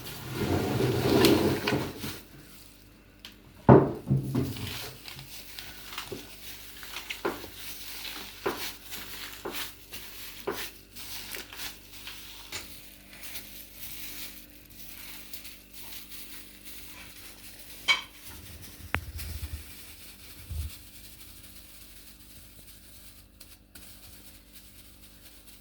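Kitchen utensils knocking and clinking against dishes while food is prepared, a loud stretch at the start, then a series of separate knocks that grow fainter and stop about three-quarters of the way through.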